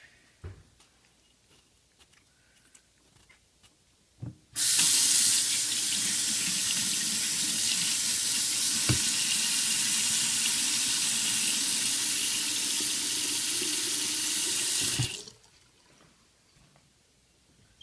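Water tap running steadily for about ten seconds, coming on about four and a half seconds in and shutting off near the end, with a few faint knocks before it.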